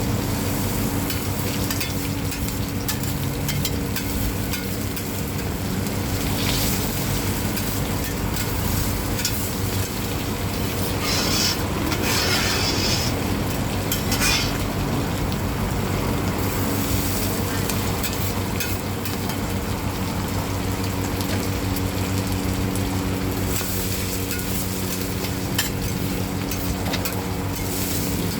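Hoi tod, shellfish and batter, frying in hot oil on a pan: a steady sizzle with a metal spatula scraping and stirring against the pan. A louder burst of hissing comes about eleven seconds in and lasts about two seconds, with a short flare just after.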